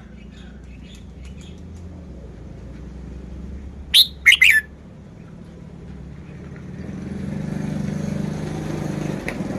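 Red-whiskered bulbul giving a quick burst of three loud, sharp notes about four seconds in, over a faint low hum. From about seven seconds a steady noise swells up underneath.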